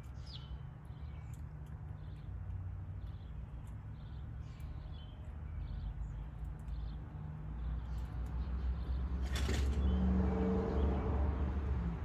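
Small birds at a feeder give short, scattered chirps over a steady low rumble. About nine and a half seconds in, a sudden loud rush of noise comes in, with a low hum under it for about two seconds, then eases off.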